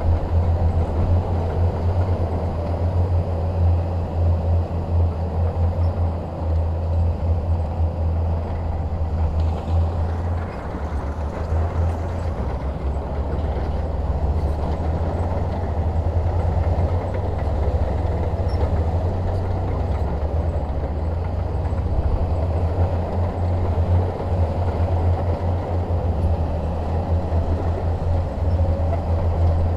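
Shantui DH17 crawler bulldozer's diesel engine running steadily under work, a continuous low rumble.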